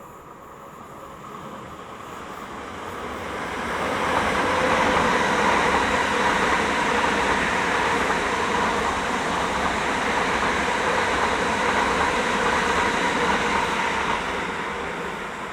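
Passenger train passing through the station: the rumble and wheel noise build over the first few seconds, stay loud for about ten seconds, then die away near the end.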